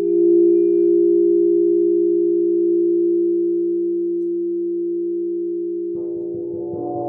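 Crystal singing bowls ringing in steady, nearly pure tones that slowly fade. About six seconds in, a titanium gong is struck, adding a cluster of lower and higher ringing tones.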